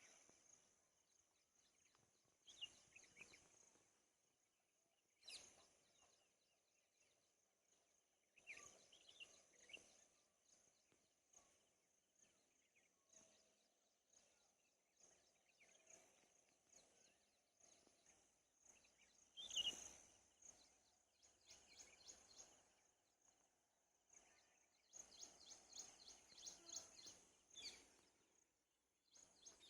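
Faint bird chirps every few seconds, with a quicker run of calls near the end, over a steady high-pitched hiss.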